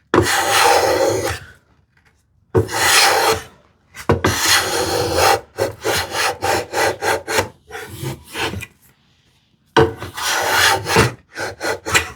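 Hand plane taking shavings off wood: several long strokes of about a second each, then a run of short quick strokes about six seconds in, and more long and short strokes near the end. The plane is bringing a proud drawer-box side down almost flush.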